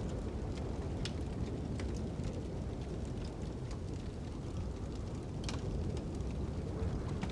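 Fire crackling with occasional sharp pops over a steady low rumble of wind.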